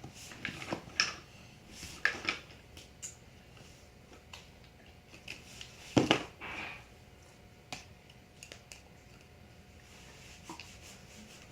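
Scattered light clicks and knocks of small objects being handled, with a louder knock about six seconds in.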